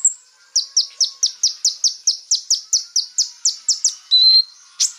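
Konin bird song played as a lure call: a fast run of sharp, downward-slurred chirps, about five a second, with a short held whistle just after four seconds in.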